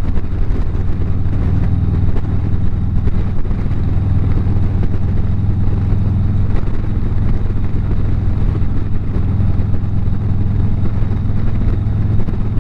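Harley-Davidson motorcycle engine and exhaust running steadily at highway cruising speed, a constant low drone with no change in revs.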